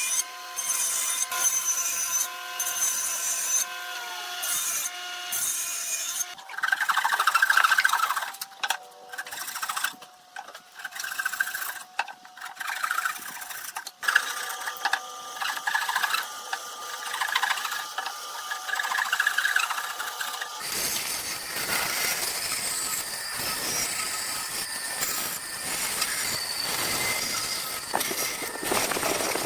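Woodworking tools working wood, with steady high whines over scraping and rubbing. The sound changes abruptly about six seconds in and again about twenty seconds in.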